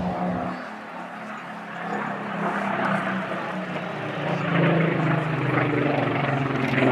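Supermarine Spitfire's piston engine and propeller droning in a display pass, growing steadily louder as it approaches.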